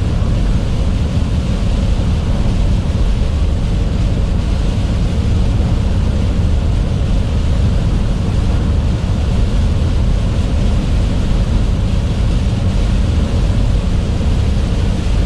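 Steady rumble inside a truck cab driving on a wet highway in heavy rain: engine and tyre noise mixed with rain and wind, with no break or change.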